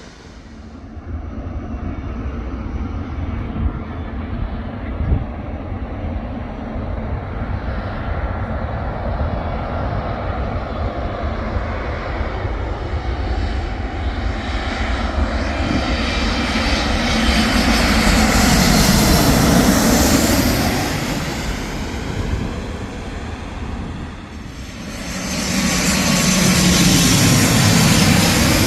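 Airliner on final approach passing low overhead, its engine roar building to loudest about twenty seconds in and easing off, then swelling loud again near the end.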